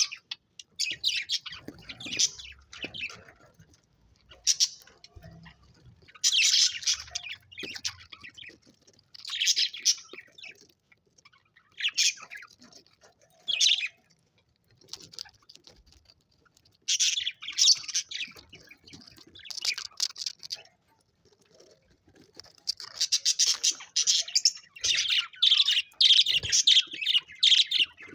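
Budgerigars chirping and warbling in bursts of high, rapid chatter with short pauses, busiest near the end.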